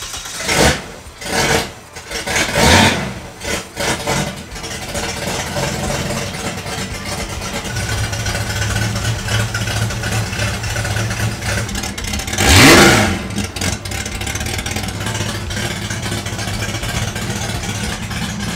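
Holden 202 straight-six engine starting up and revving in several short bursts, then running at a steady idle, with one quick rev that rises and falls about two-thirds of the way through.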